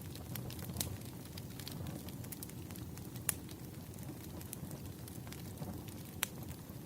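Wood fire burning: a steady low rumble of flames with scattered sharp crackles and pops, a few louder pops standing out.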